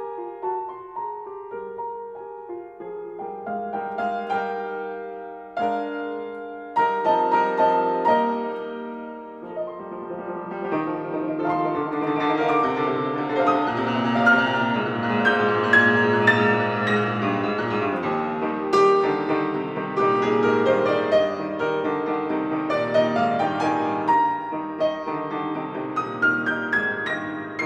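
Background piano music, growing fuller and busier in its middle part.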